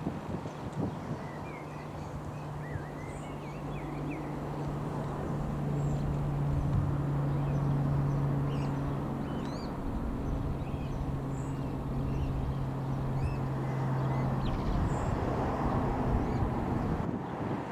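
Lockheed Martin C-130J Super Hercules's four-turboprop drone passing: a steady low propeller hum that swells, dips slightly in pitch about midway and stops about 14 seconds in. Small birds chirp throughout.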